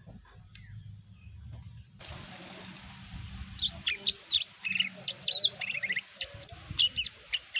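Cucak ijo (green leafbird) singing. The first two seconds are fairly quiet, then from about three and a half seconds in comes a fast, varied run of sharp high chirps, short whistled notes and brief trills.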